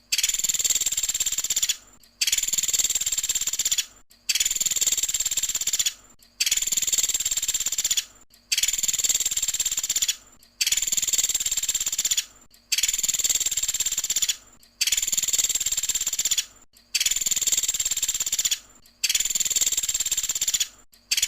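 Looped recording of a 'pelatuk sampit' woodpecker's rapid, high-pitched trilling call ('tembakan'), the same burst of about two seconds repeated ten times with short gaps between.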